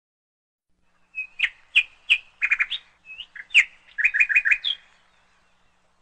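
A cucak ijo (green leafbird) singing. Starting about a second in, it gives two phrases of sharp chirps and short whistled notes, each with a quick run of repeated notes, and falls silent about five seconds in.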